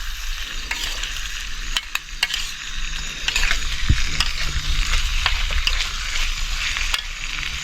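Fish frying in a pan of hot oil: a steady sizzle dotted with sharp crackles and spatters.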